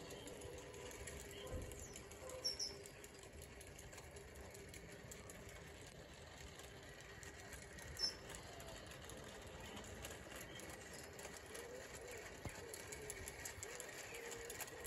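Quiet outdoor ambience with a couple of short, high bird chirps, about two and a half and eight seconds in.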